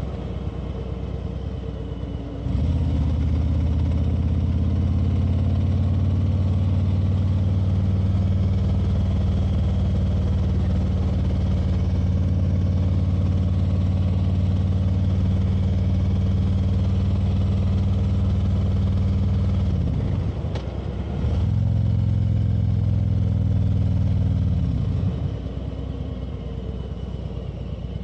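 Motorcycle engine running under steady throttle while riding. It opens up and gets louder about two seconds in, dips briefly and picks up again about twenty seconds in, and eases off near the end.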